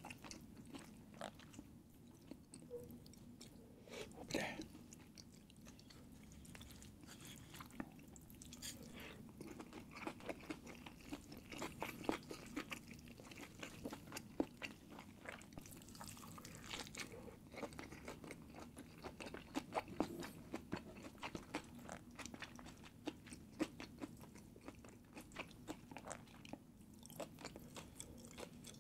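Close-miked chewing and wet mouth sounds of a person eating, with a steady run of small clicks and a few louder smacks.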